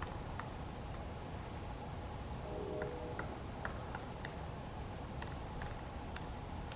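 Pileated woodpecker pecking at wood while feeding: sharp, irregularly spaced taps, about a dozen, over a steady low rumble.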